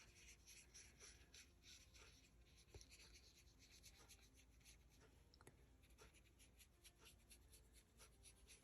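Faint, quick scratchy strokes of a Wink of Stella glitter brush pen rubbed back and forth along a paper page edge, with a couple of small clicks.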